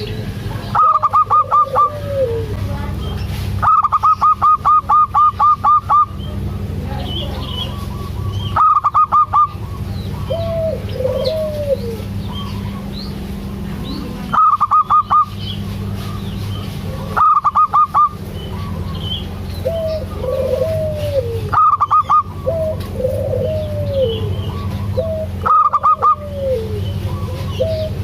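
Zebra dove (perkutut) cooing: about seven bursts of rapid, high staccato notes, most under a second and one about two seconds long, each followed by lower, arching coos that rise and fall. A steady low hum runs underneath.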